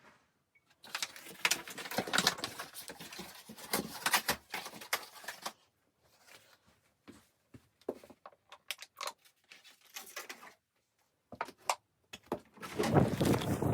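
Rapid, irregular clicking and crackling, dense for about the first five seconds and then sparse with silent gaps. Low wind noise on the microphone comes in near the end.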